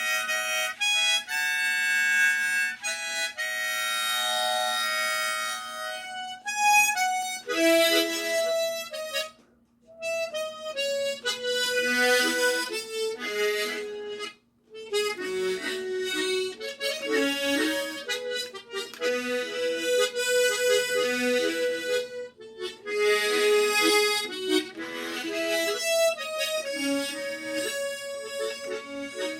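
Harmonica playing a slow Korean pop ballad melody in slow go-go rhythm, with chordal notes. The phrases break off briefly about ten and fifteen seconds in.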